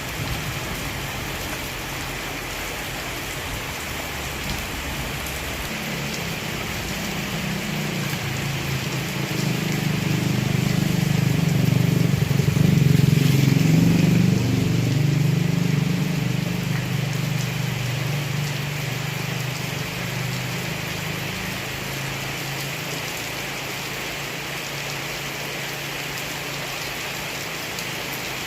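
Steady heavy rain falling. A low rumble swells in about six seconds in, is loudest around the middle and fades away by about twenty seconds.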